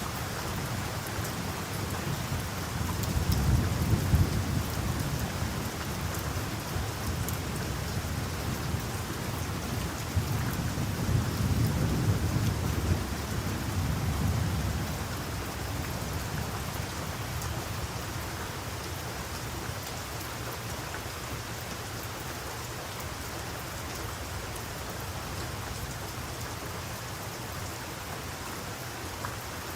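Heavy rain falling steadily on a rainforest. Low thunder rumbles twice, a few seconds in and again around the middle, and then dies away while the rain keeps on.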